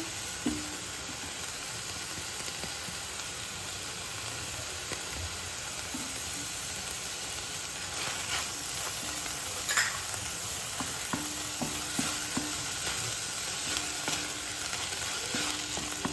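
Chopped onion, tomato and green chilli sizzling in oil in a stainless steel pan, stirred with a spatula that scrapes and taps against the pan now and then.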